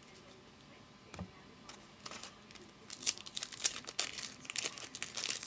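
A trading-card pack wrapper being torn open and crinkled in the hands: quiet at first, then a quick run of sharp crackling starting about halfway through.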